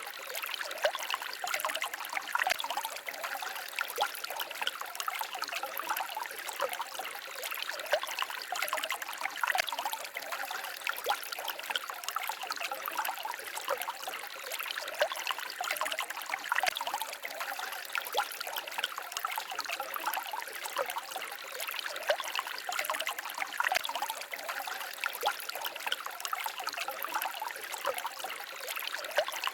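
Small forest stream babbling and trickling over stones, a steady splashy patter without deep rumble.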